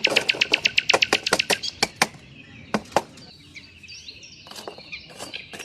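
A knife chopping quickly on a cutting board, about seven strokes a second for the first two seconds, then a few single chops. Birds chirp in the quieter second half.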